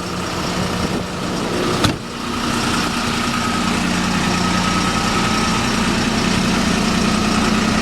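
Ford F650's 5.9-litre Cummins inline-six turbodiesel idling steadily, with a single sharp knock about two seconds in.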